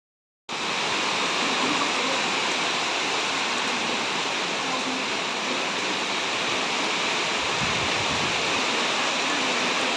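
Heavy rain pouring steadily, an even hiss of falling water that starts about half a second in.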